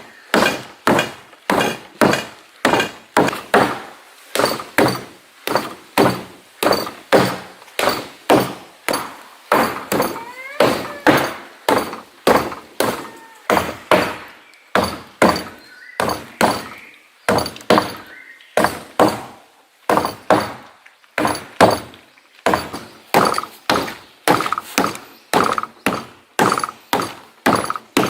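Steamed sticky rice being pounded with a heavy wooden pestle in a mortar: steady, even thuds, about three every two seconds.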